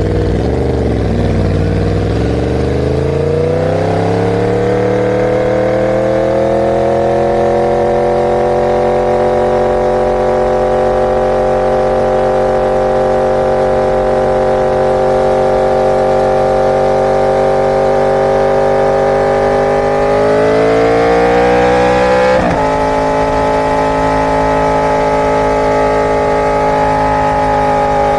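Inline-four superbike engine under way. Its pitch climbs over the first few seconds and then holds steady for a long stretch. Near the end it climbs again and drops abruptly into the next gear, then holds steady.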